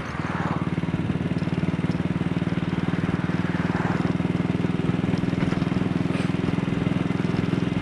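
AJS Model 8 single-cylinder motorcycle engine running under way at a steady pace. It picks up in the first half second after a brief easing of the throttle, then holds an even beat.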